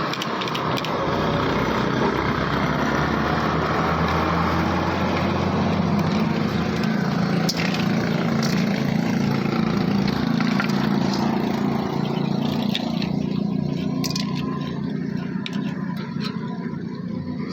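Motorcycle engine running steadily, a little quieter over the last few seconds, with a few sharp clicks on top.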